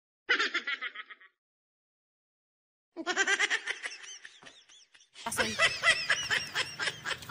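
Bursts of laughter in three stretches of quick repeated 'ha' pulses, the first two broken off by dead silence.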